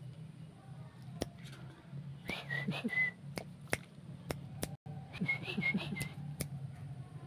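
Whistling: two short runs of whistled notes with small dips in pitch, one about two seconds in and another about five seconds in. Scattered sharp clicks and a low steady hum run under them.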